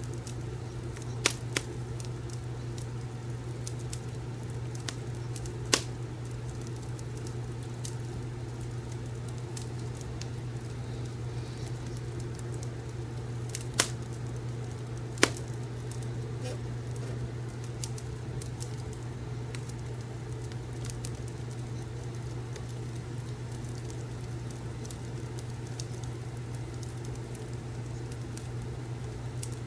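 Fireplace crackling: scattered sharp pops over a steady low hum and soft hiss, the loudest pop about halfway through.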